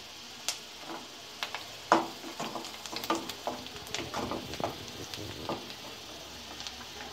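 Chopped onion, ginger and garlic sizzling in hot oil in a kadai, with a wooden spatula stirring and knocking against the pan again and again; the sharpest knock comes about two seconds in.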